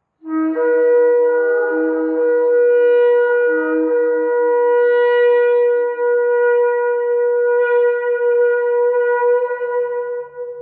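A shofar sounding one long held blast. It starts sharply with a brief lower note, then holds a steady, bright, buzzing pitch through to the end.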